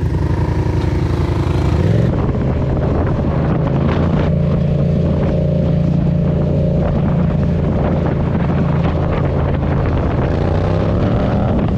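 Motorcycle engine running under way at a steady speed, with wind on the microphone. The engine note changes about two seconds in, then holds steady.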